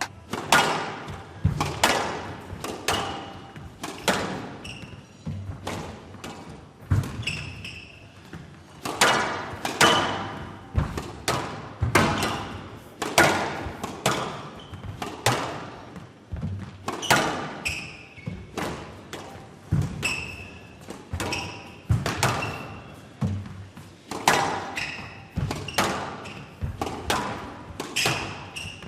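Squash rally: the ball cracking off rackets and thudding against the court walls, with sharp hits every second or so and short high squeaks between them.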